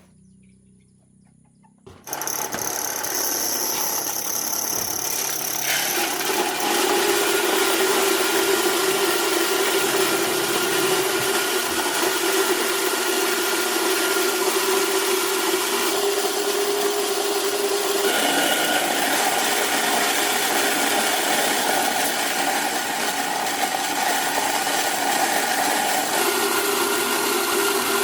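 A motor-driven machine running steadily, starting about two seconds in, its note shifting several times.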